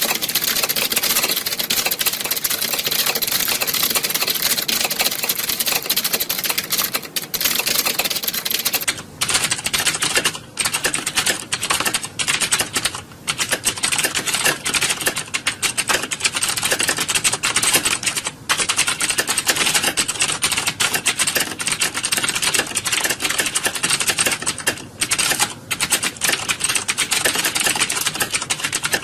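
Many computer keyboards typed on at once, a dense, continuous clatter of overlapping key clicks with a few brief lulls.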